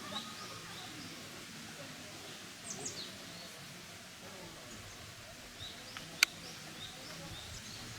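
Quiet outdoor ambience with a few faint, short, high bird chirps, and one sharp click about six seconds in.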